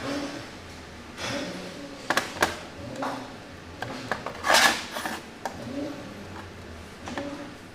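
Small metal parts and hand tools clinking and knocking on a bench as a carburetor is worked on, with a louder clatter about halfway through.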